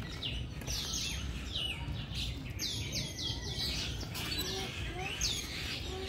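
Many birds chirping together: a dense chorus of short, high calls that sweep downward in pitch, over a low, steady background hum.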